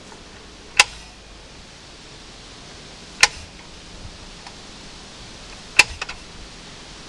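Three sharp clicks, about two and a half seconds apart, the last followed by a couple of smaller ones, over a steady low background; no engine is running.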